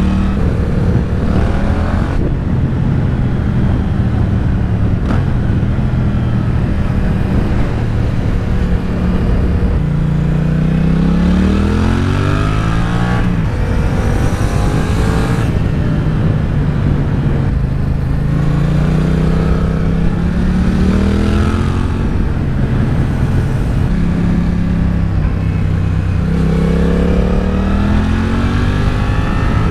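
Yamaha MT-07's 689 cc parallel-twin engine accelerating and backing off through a string of corners. The engine note rises in long climbs, drops, and climbs again several times.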